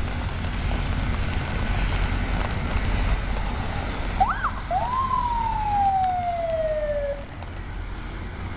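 Steady low rumble of diesel locomotive engines. About halfway there is a whistle-like tone: a quick rising-and-falling chirp, then a longer tone that climbs and slowly slides down.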